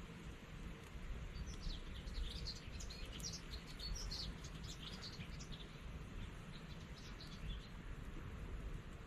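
A small bird twittering: a quick run of high chirps that starts about a second and a half in and stops near the end, over a steady low background rumble.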